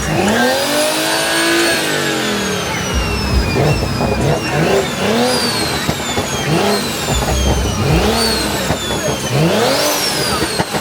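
Car engine revved in quick repeated blips, its pitch rising and falling about once every second and a half.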